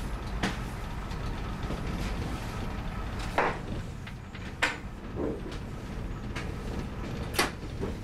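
Class 101 diesel multiple unit running along the line: a steady low rumble, broken about five times by short sharp knocks and rattles, the loudest a few seconds in, again about a second later, and near the end.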